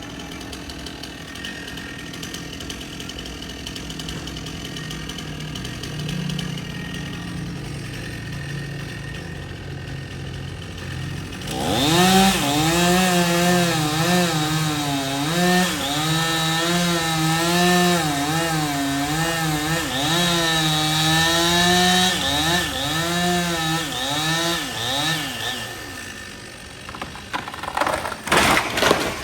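Stihl chainsaw running low and steady for about eleven seconds, then opened up to full throttle and cutting wood, its pitch wavering under load for about fourteen seconds before it drops back. A few sharp knocks come near the end.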